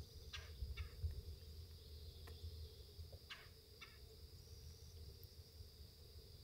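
Faint woodland ambience: a steady high-pitched insect chorus, broken by two pairs of short animal calls, one just after the start and one about three seconds in.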